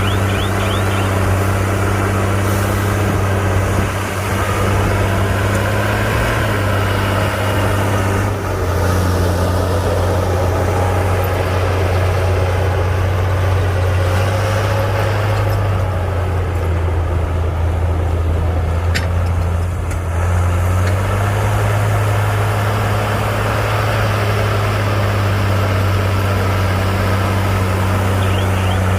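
Heavy diesel engine of a bulldozer running steadily under work, its engine note dropping and rising a few times as the load changes.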